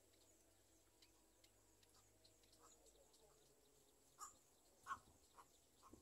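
Near-silent outdoor quiet broken by a few short, faint bird calls, about four of them in the last two seconds.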